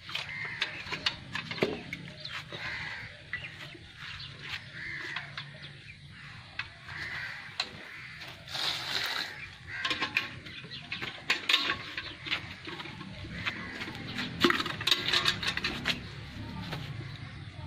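Birds chirping and calling, with scattered short clicks and noises.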